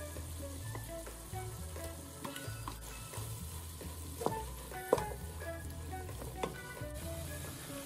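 Ground beef and minced garlic sizzling gently in a nonstick pot while a wooden spatula stirs and scrapes through them, knocking against the pan a few times in the middle. Soft background music with a low bass plays under it.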